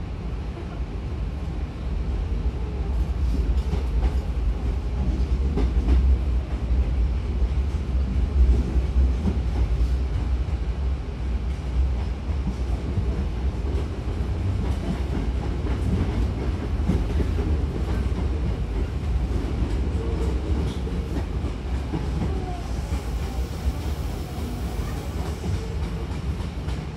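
Cabin running noise of a Hankyu 1000-series electric train as it gathers speed out of the station: a steady low rumble with wheels clacking over rail joints.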